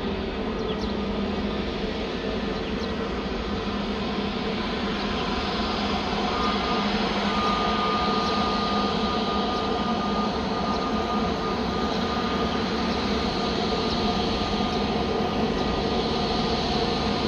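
Jet airliner engines running steadily, with a high whine that comes in and grows louder about six seconds in.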